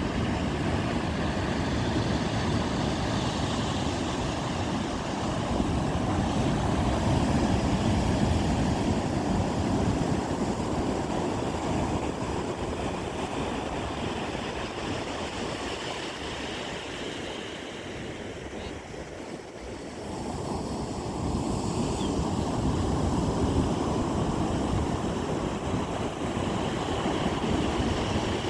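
Ocean surf breaking and washing up a sandy beach, a continuous rush that swells and ebbs, easing about two-thirds of the way through and building again. Some wind on the microphone.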